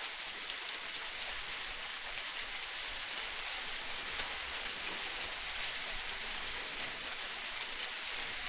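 Steady hiss of water like rain falling on a surface, with many fine pattering ticks and no swell or surge in loudness.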